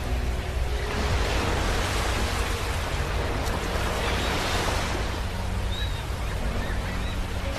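Sea waves breaking and washing on a beach. The surf hiss swells from about a second in and eases off after about five seconds, over a steady low rumble.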